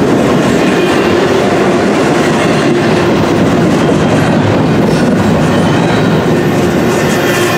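Double-stack intermodal well cars rolling past close by: a steady, loud rumble and clatter of steel wheels on the rails.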